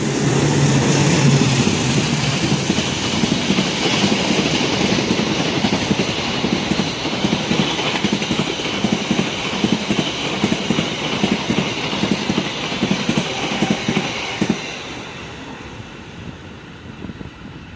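Passenger express hauled by a CC 206 diesel-electric locomotive passing straight through a station at speed: the locomotive, then its coaches rushing past with a steady clickety-clack of wheels over rail joints. It fades away about fifteen seconds in as the train leaves.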